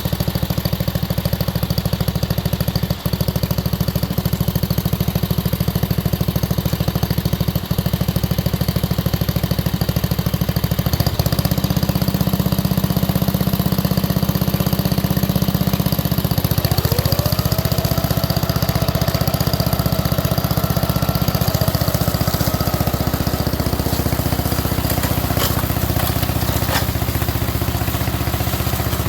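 Riding mower tractor's 7 hp Briggs & Stratton single-cylinder engine running steadily as the mower deck is engaged. Its tone changes about eleven seconds in, and a whine rises and then holds steady from about seventeen seconds in.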